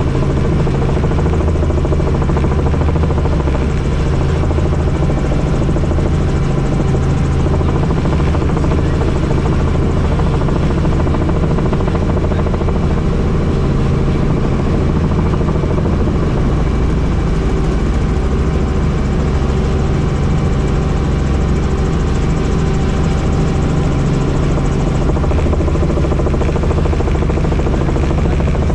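Helicopter in flight: steady, loud rotor and engine noise with a low, even drone that does not change.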